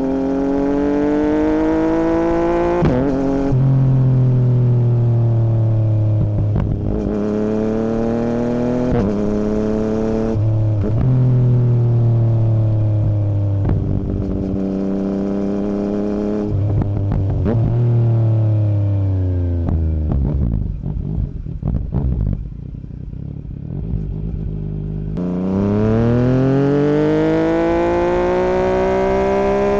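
2017 Yamaha MT-09's three-cylinder engine through an Akrapovic Racing Line full exhaust with no dB killer, accelerating and changing up through the gears, the pitch rising then stepping down at each shift. About two-thirds of the way through it goes quieter and uneven with crackles as it slows, then pulls hard again, the pitch climbing steadily.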